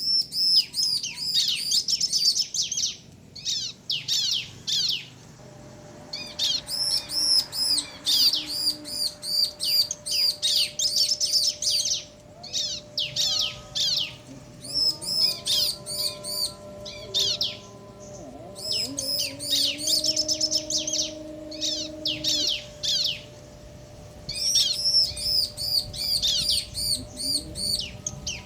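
Bar-winged prinias (ciblek), male and female, calling back and forth in rapid bouts of high, repeated chirping notes, with short pauses between bouts.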